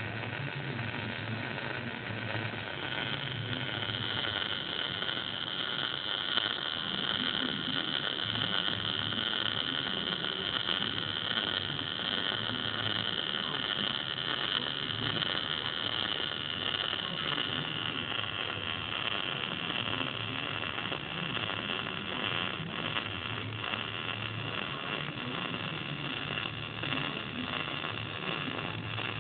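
MIG welder arc crackling steadily while a basic bead is run, with a steady high whine above the crackle.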